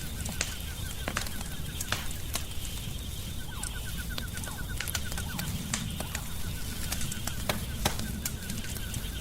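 Wood fire crackling, with irregular sharp pops over a low, steady rumble. A fast, evenly pulsing call repeats faintly in the background.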